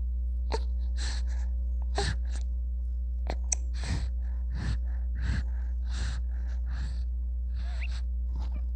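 Newborn baby's quick, breathy gasps and small squeaks, about two a second, over a steady low hum.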